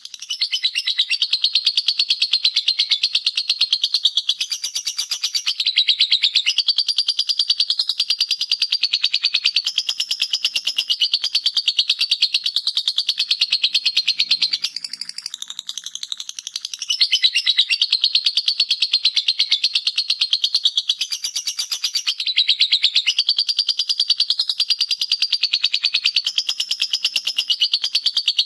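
Lovebird singing its 'ngekek' song: a long, almost unbroken run of rapid, high-pitched chattering. It eases off briefly about halfway through, then picks up again.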